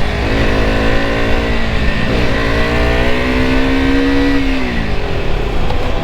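KTM RC 200's single-cylinder engine accelerating under way: its note climbs steadily for a couple of seconds, then drops away quickly about five seconds in as the throttle is closed.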